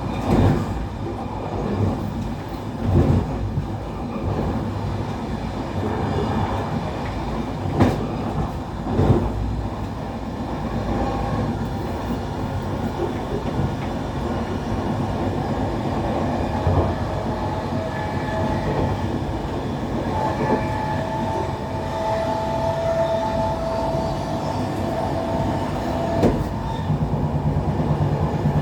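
Passenger train running along the rails: a steady rumble with several sharp clunks of wheels over rail joints in the first ten seconds. A steady whine joins in from about halfway and drops away a couple of seconds before the end.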